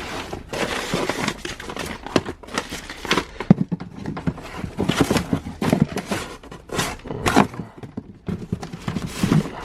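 Handling noise: irregular clicks, taps and knocks, with some rustling, as a removed diesel cylinder sleeve and its rubber seals are handled and inspected.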